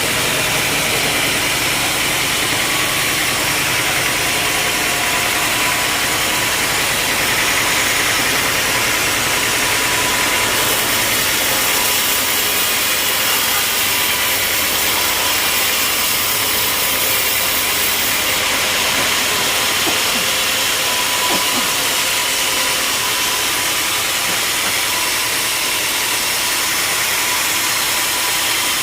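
Sawmill machinery running steadily: a loud, even mechanical noise that grows brighter and hissier for several seconds around the middle.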